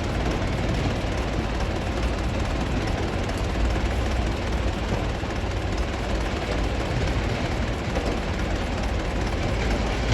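Heavy quarry machinery running steadily: a continuous, even machine noise, strongest low down, with no separate impacts.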